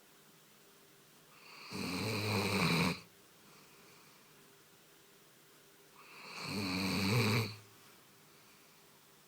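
A dog snoring: two long snores, each building up over about a second and then cutting off sharply, about four and a half seconds apart.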